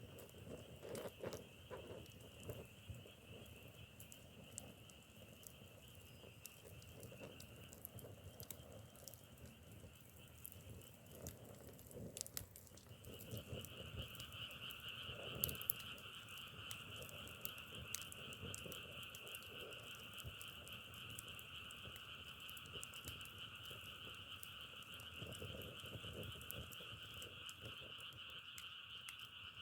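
Faint chorus of frogs, a steady high trilling that breaks off for a moment partway through and then comes back louder. Scattered soft crackles and pops of burning firewood run through it, thickest in the first half.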